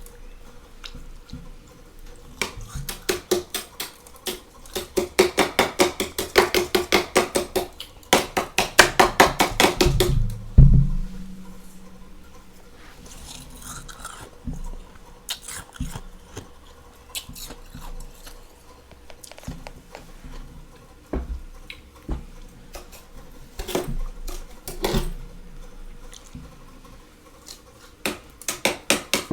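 Freezer frost crunching in quick rhythmic runs of crisp strokes, about five a second, then scattered single crunches and clicks, with another quick run near the end. A faint steady hum sits underneath.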